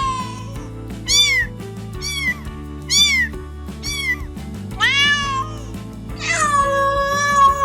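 A cat meowing repeatedly: about six short, high, arching meows roughly a second apart, then one long drawn-out meow from about six seconds in. Soft background music with sustained low notes plays underneath.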